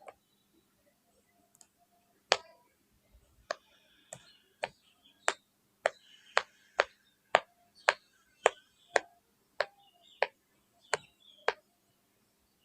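A series of about sixteen sharp single pops, the first about two seconds in, then coming roughly every half second to second, closest together in the middle.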